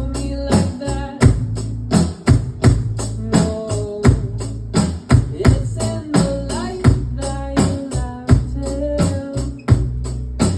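A pop-rock song with a sung melody, and a drum kit played along to it in a steady beat of regular, sharp hits.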